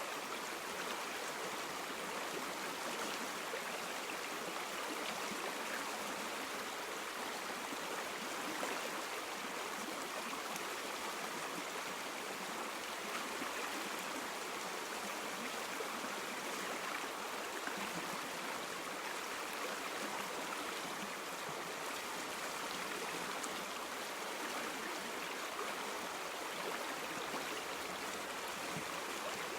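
River or stream water flowing and babbling steadily, an even rushing hiss with no separate splashes.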